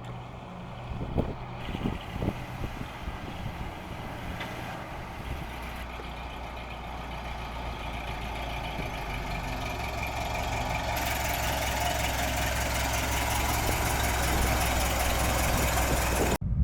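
A 1957 Cadillac's 365 cubic-inch V8 engine running, with a few low thumps in the first seconds, then a steady hum that grows gradually louder. The sound cuts off suddenly near the end.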